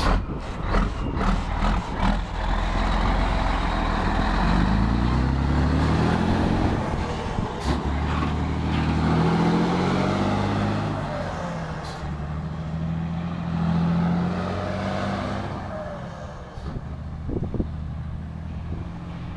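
Scania 112 truck's six-cylinder diesel engine, heard from the cab, pulling hard and shifting up through several gears, its pitch rising and dropping back with each shift. A few sharp clicks come near the start, and the engine eases off in the last few seconds.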